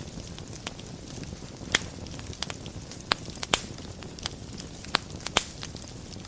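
Wood fire burning in a fireplace: a steady low rumble of flames with sharp, irregular crackles and pops, the loudest about 2, 3 and 5 seconds in.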